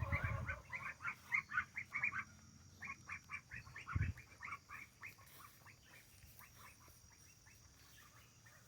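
Ducks quacking in a quick series of short calls, about three or four a second, thinning out and fading away by the middle. A single low thump comes about four seconds in.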